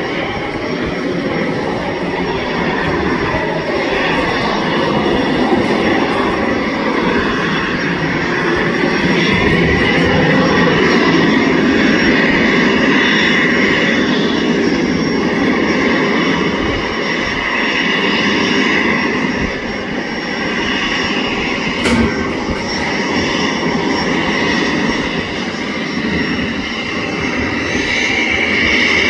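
Cessna Citation Longitude's twin Honeywell HTF7700L turbofan engines running, a steady jet whine over a rushing roar that swells a little and eases off. A brief sharp click about two-thirds of the way through.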